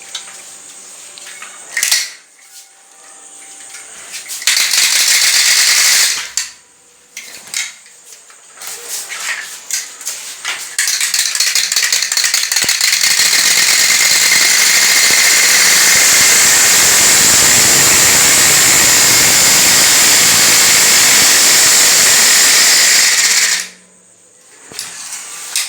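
A plastic water bottle fitted to a bicycle, rattling rapidly as the turning wheel's spokes strike it, like a motorbike. A short burst about four seconds in, then a long continuous rattle that thickens after a few seconds and stops abruptly near the end.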